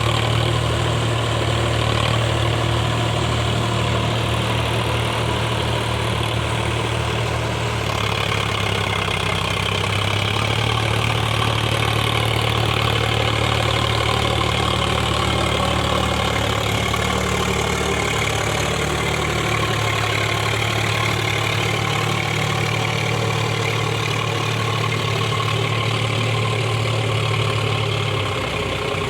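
Sonalika 4WD tractor's diesel engine running steadily at low revs, a continuous low hum that eases slightly near the end.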